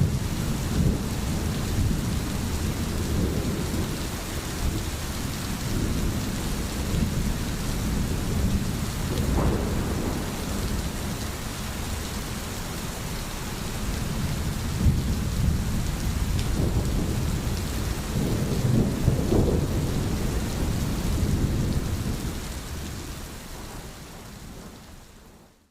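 Steady rain with low rolling thunder rumbling underneath, fading out over the last few seconds.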